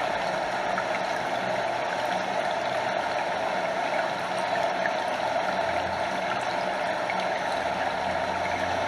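Stream water flowing steadily, a mix of close lapping and trickling over the rush of a small waterfall.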